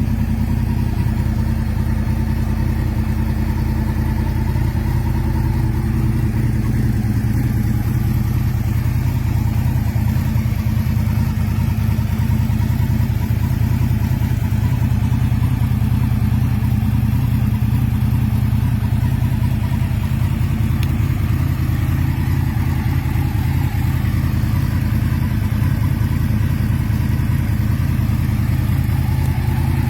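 2012 Yamaha YZF-R1's crossplane inline-four idling steadily through a Leo Vince SBK aftermarket exhaust, a low, even engine note that holds the same pitch throughout.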